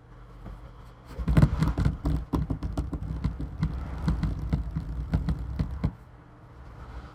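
Hands working on a laptop: a quick, irregular run of plastic clicks and knocks, several a second, with dull thuds on a hard surface. It starts about a second in and stops about a second before the end.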